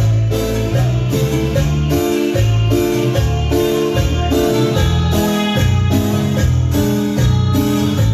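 A band playing an instrumental passage led by an electric keyboard, over a strong bass line, with chords repeating in a steady, even rhythm.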